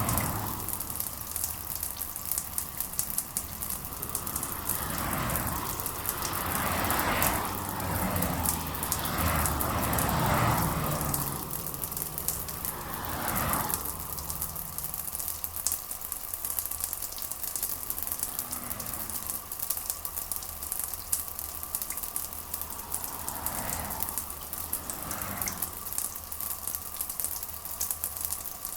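Steady rain falling, a continuous hiss with a dense patter of drops. The rain swells louder in waves for several seconds in the first half and briefly again near the end.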